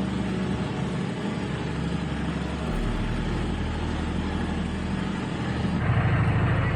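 Sailboat's inboard engine running in reverse as the boat backs away from a dock, a steady engine hum that gets louder and more pulsing about six seconds in.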